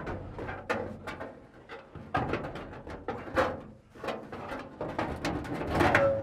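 Irregular knocks, clicks and scraping of light aluminium aircraft parts, Cessna 172 flaps, being handled and moved.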